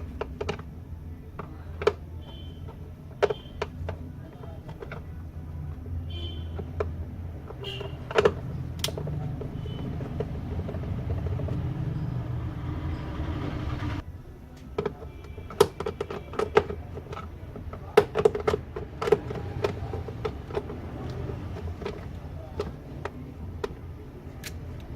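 Screws being undone from the plastic base of a mixer grinder with a hand screwdriver: scattered clicks and taps of the tool and metal screws against plastic, busiest in the second half. Under them a steady low hum stops suddenly about halfway through.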